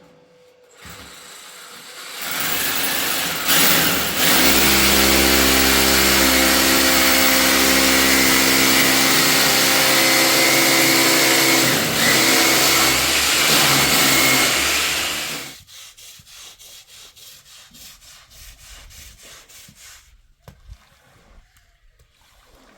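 A loud machine with a motor runs steadily for about eleven seconds with a strong hiss, then cuts off suddenly. A quieter, even ticking of about three or four clicks a second follows.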